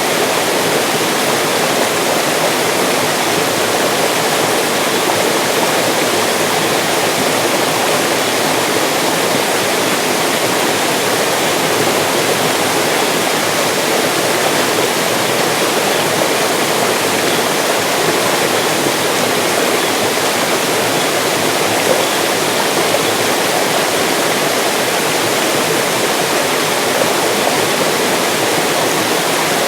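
Mountain stream rushing steadily over rocks: a dense, unbroken water noise.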